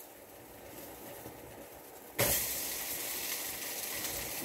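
Ground-chicken burger patties frying in a hot pan: quiet at first, then a steady sizzle breaks out suddenly about two seconds in.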